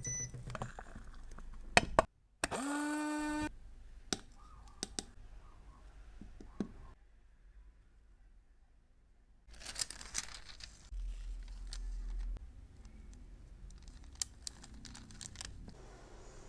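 Close-up handling of cosmetics and their cases: scattered small clicks and taps with light crinkling. About two and a half seconds in there is a steady pitched tone lasting about a second.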